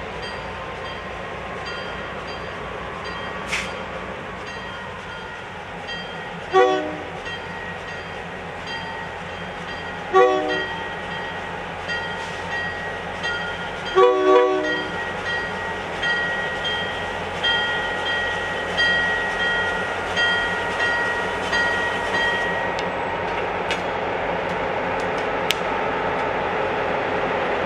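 Diesel locomotive air horn sounding a series of blasts for a grade crossing, the last two close together, over the steady rumble of the passing train. After the horn, the locomotive bell rings about once every second and a half, and the train noise grows louder toward the end.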